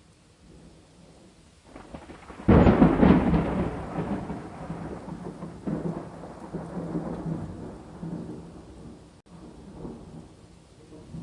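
Thunder over steady rain: a sudden loud clap about two and a half seconds in, then a rolling rumble that swells once more and fades away over several seconds.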